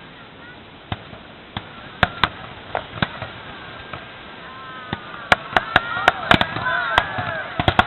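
Fireworks going off: scattered sharp bangs and cracks that come faster about five seconds in. High shouting voices join them near the end.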